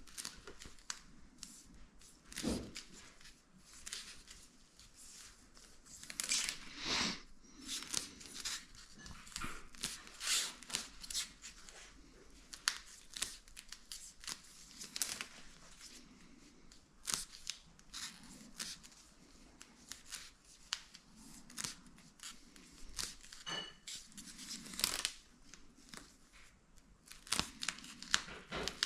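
Close-up handling noise of self-adhesive sealing strip being worked by hand: irregular tearing, crinkling and scratchy rasps with many small clicks, a few longer tearing rasps standing out.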